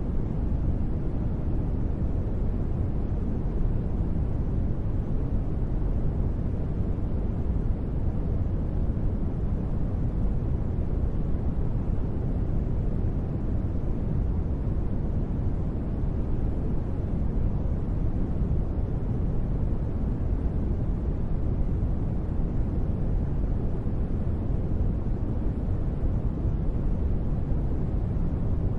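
Steady ambient noise for sleep, deep rather than hissy, with most of its weight in the low end and no change in level.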